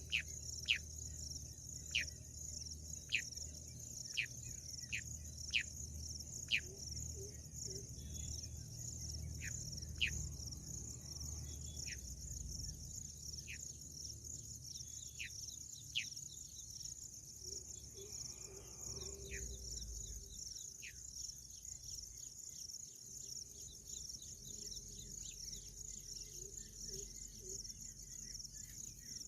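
Steady, high-pitched trilling of crickets, with a bird's short whistled notes that slide sharply downward. The notes come about once a second for the first half and then grow sparser.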